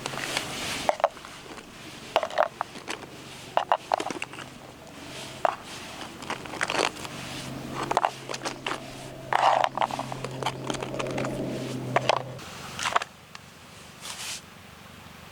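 Irregular scrapes, clicks and knocks of objects being handled, with a low steady hum for several seconds in the middle.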